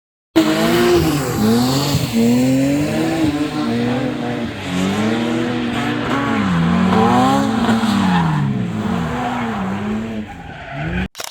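A drift car's engine revving up and down again and again as the throttle is worked through a slide on a wet track, with tyre noise beneath. It cuts in abruptly just after the start and cuts off abruptly just before the end.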